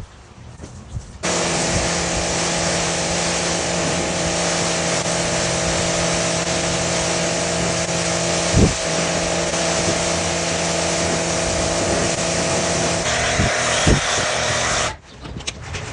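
Pressure washer running and spraying: a steady motor hum under a hiss of spray that starts about a second in and cuts off suddenly near the end, with a slight change in tone shortly before it stops.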